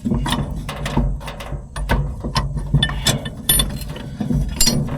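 Irregular metallic clicks and knocks of haybine drive parts being handled and worked into place as a bearing and its collars are lifted back up, over a steady low hum.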